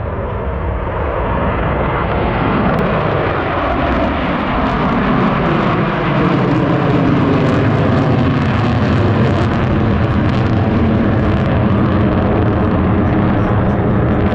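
Jet noise from Blue Angels F/A-18 Super Hornets flying past. The engines grow louder over the first few seconds with a falling whine, then hold at a steady loud rumble.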